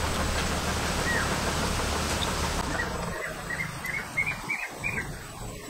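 A steady background hiss. About two and a half seconds in, a bird gives a quick series of short chirps that come faster and louder over about two seconds.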